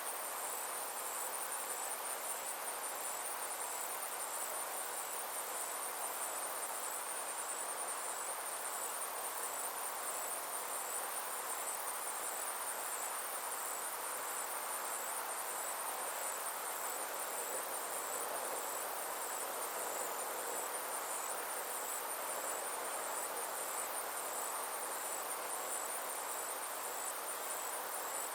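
Summer insects chirring without a break: a high, finely pulsing trill over a softer, lower hiss.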